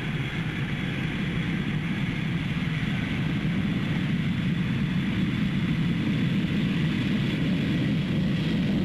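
Boeing 747 jet engines at takeoff power during the takeoff roll: a steady jet rumble with a thin high whine on top, growing a little louder in the first second and then holding.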